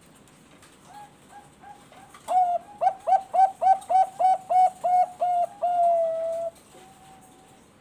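Zebra dove (Thai-bred 'perkutut bangkok' song dove) singing: a few soft coos, then a run of about a dozen loud, clipped coos at about three a second, ending in one long drawn-out note.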